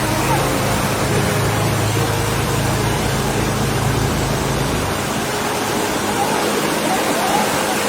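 Boat motor running under a steady rush of water noise; the motor's low hum drops away about five seconds in, leaving the water rush.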